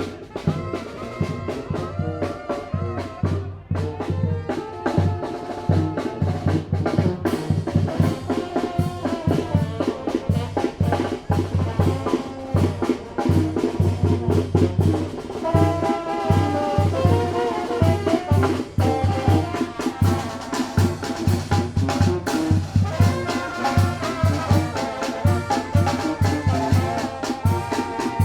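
Tamborazo band playing: trumpets and trombones carrying the melody over the bass drum's steady, driving beat.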